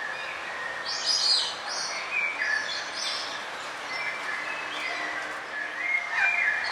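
Several forest birds chirping and calling in short, overlapping phrases over a steady background hiss, with the loudest bursts of song about a second in and near the end.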